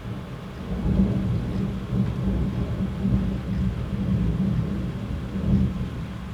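Thunder rumbling and rolling in several deep swells, loudest about a second in, fading away near the end.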